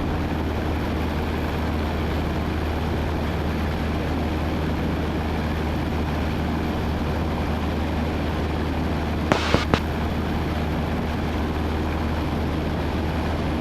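Steady drone of a Cessna 172N's four-cylinder Lycoming engine and propeller in cruise flight, heard inside the cabin. Two short clicks come about nine and a half seconds in.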